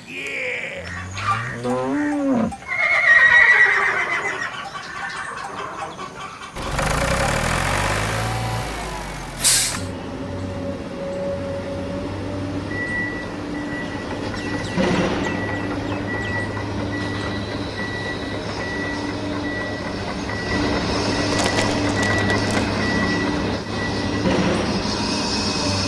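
Wavering, gliding calls at first, then a hiss lasting about three seconds and ending in a sharp click, then a steady motor drone with a thin high beep coming and going.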